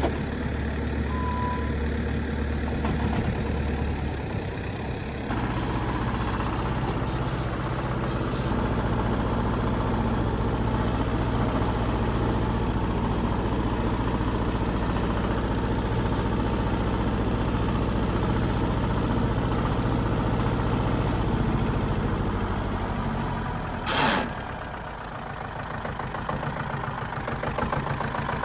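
Heavy machine's diesel engine running steadily at idle. Its note shifts abruptly a few seconds in. A sharp knock comes near the end, after which the engine sounds lower and quieter.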